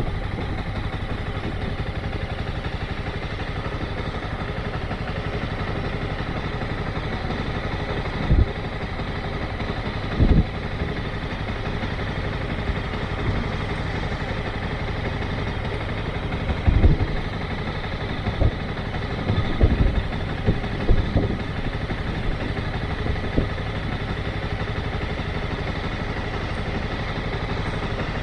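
Motorcycle engine running steadily at low revs, with a few brief louder low bursts about a third of the way in and again just after the middle.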